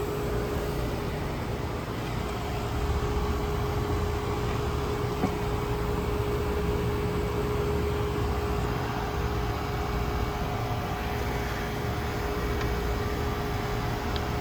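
Steady hum of running machinery with one constant mid-pitched tone over an even noise.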